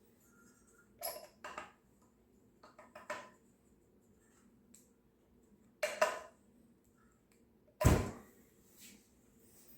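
A few short knocks and clicks of hard objects being handled and set down, the loudest a thump near the end.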